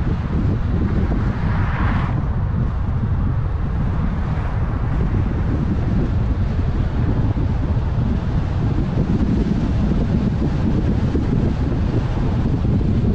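Car driving at road speed: a steady low rumble of road and engine noise with wind buffeting the microphone, and a short swell of hiss about two seconds in.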